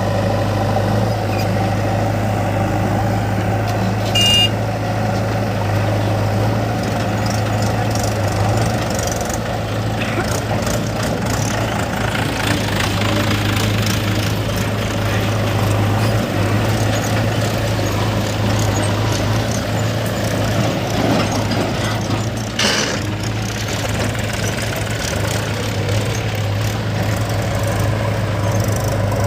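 Diesel engine of heavy farm or earth-moving machinery running steadily with a constant low hum. A short high beep sounds about four seconds in.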